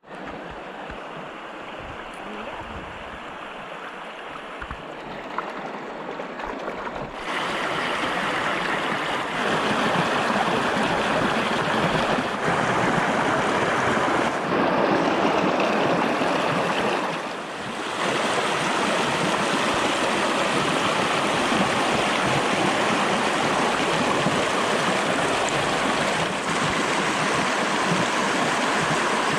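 Steady rushing water noise that grows louder about seven seconds in, with a brief dip past the halfway point.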